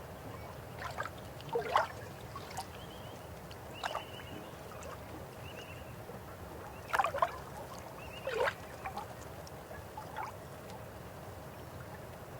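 River water flowing with a steady rush, broken by irregular splashes and gurgles every second or two.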